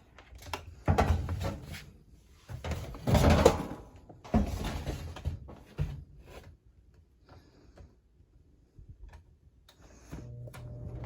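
Irregular knocks, clicks and rustling of a Lasko model 3755 box fan being handled, then about ten seconds in its motor starts with a steady hum.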